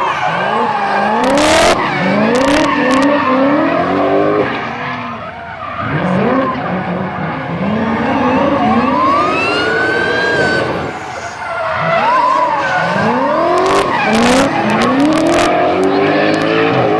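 Drift car engines revving hard over and over, the pitch climbing and falling with each throttle blip, over the hiss of tyres skidding. A few sharp cracks come in about two seconds in and again near the end.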